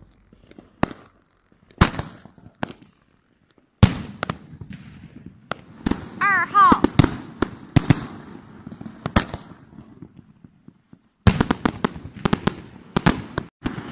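Aerial fireworks going off: sharp bangs and pops at irregular times, coming thick about four seconds in and in a rapid cluster near the end. A person's voice calls out about six seconds in.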